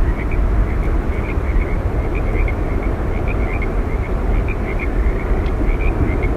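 Yosemite Falls roaring steadily, a continuous rushing water noise heaviest in the low end, with many short, faint high chirps scattered over it.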